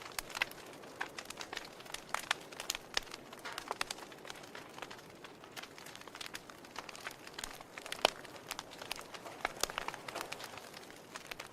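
Wood fire crackling in a fireplace: irregular snaps and pops of burning logs over a soft hiss, with one louder pop about eight seconds in.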